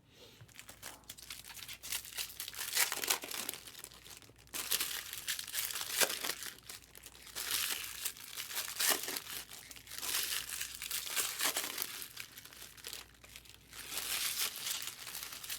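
Trading card pack wrappers being torn open and crinkled by hand: a run of irregular crackling and ripping.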